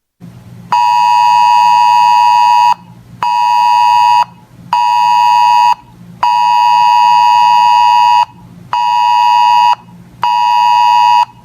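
Weather radio alert alarm beeping at a pitch near 1 kHz, six loud beeps in a long-short-short pattern played twice, signalling an incoming weather alert.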